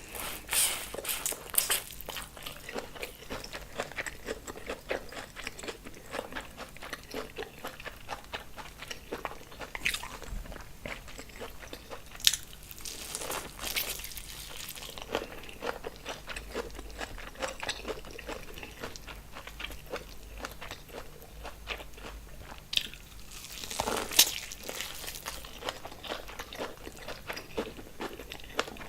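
Close-up eating sounds: many small clicks and wet smacks of chewing and biting seafood in sauce, with a few louder slurps and crunches.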